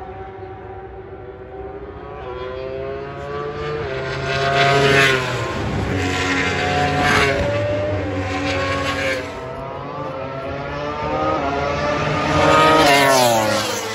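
Racing engines of several vehicles passing close by in turn, each engine's pitch rising as it approaches and dropping as it goes past; the loudest passes come about five seconds in and again near the end.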